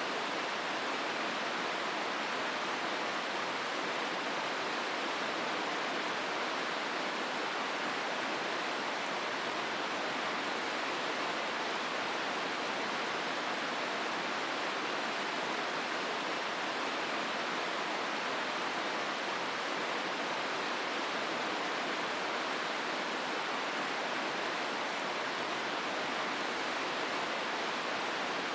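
Hozu River rushing through the gorge: a steady, unbroken hiss of flowing water.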